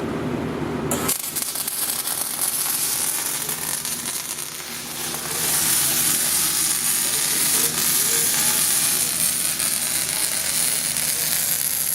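MIG welding arc burning steadily with the welder set near its maximum. It makes a continuous sizzling hiss that starts about a second in, grows louder about halfway through, and stops right at the end.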